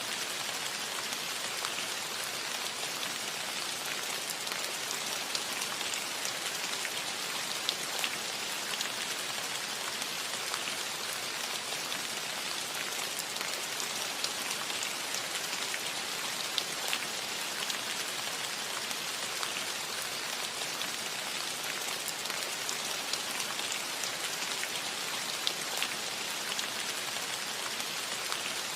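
Steady rain falling on a roof, a dense even patter with scattered sharper drop hits.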